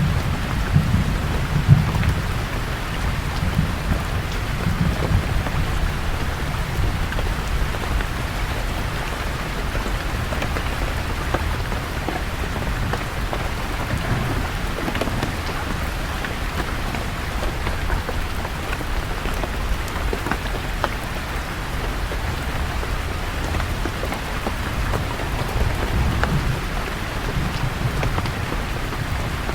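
Steady rain falling on leaves, with low rolling rumbles of distant thunder, strongest in the first few seconds and again near the end.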